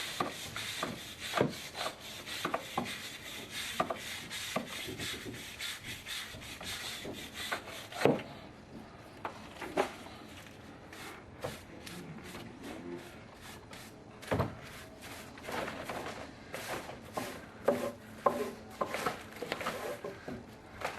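Irregular scraping and rubbing against a hard surface, with many scattered sharp knocks, quieter for a few seconds in the middle.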